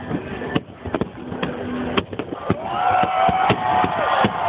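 Fireworks shells bursting in a quick irregular series of bangs. From about halfway through, a crowd's cheering and whooping joins in and grows louder.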